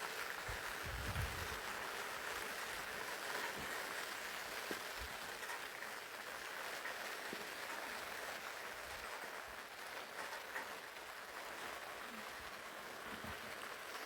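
Steady rain falling, with a few faint low knocks about a second in.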